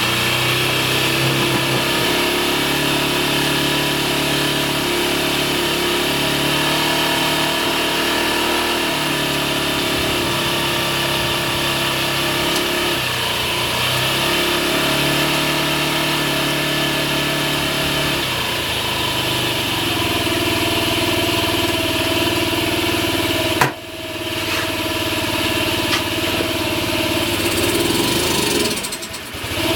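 2009 Honda Ruckus scooter's 49cc four-stroke single running cold at an uneven idle, its pitch shifting up and down several times, with a brief sudden drop about two-thirds of the way through. It is the sign of a running fault the owner cannot trace: the engine bogs and nearly stalls whenever it is given throttle.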